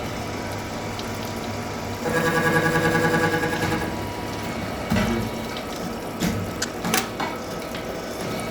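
Servo-indexing milling machine for mixer-grinder shafts running with a steady hum. About two seconds in it gets louder for a second and a half, with an even buzzing pattern, as a cut or index move runs. A few short sharp clicks and knocks follow later.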